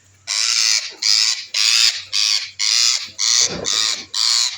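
Parrot screeching: a run of loud, harsh calls, about two a second, starting just after the beginning.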